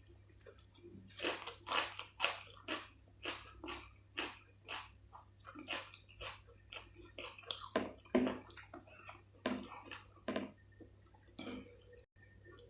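Close-miked eating: a person chewing and biting food, with irregular quick mouth sounds about two or three a second, trailing off near the end. A faint steady low hum lies underneath.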